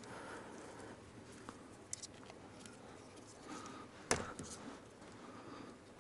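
Faint handling sounds of hands and tools working on car wiring, with scattered small clicks and one sharp click about four seconds in.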